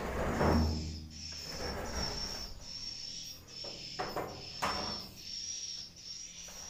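High, thin swiftlet chirps repeating steadily, about three every two seconds, in a swiftlet nesting house. Rustling and scraping from handling run underneath, with a louder rustling thump about half a second in.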